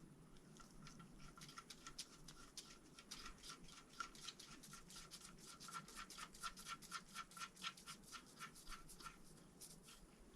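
Faint, rapid metallic clicking of a hand ratchet working bolts, a ringing click repeated several times a second. It speeds up and grows louder from about three seconds in, then stops shortly before the end.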